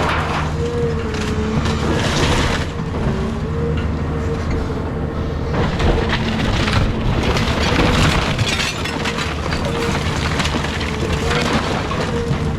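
Caterpillar 323 hydraulic excavator running steadily, its hydraulic whine wavering in pitch as it works, while the house's wood framing and debris crack, break and crash several times as it is torn down.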